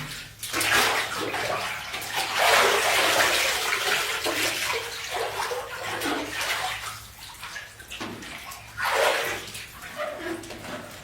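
Water pouring and splashing in uneven surges, loudest in the first few seconds and again briefly near the end.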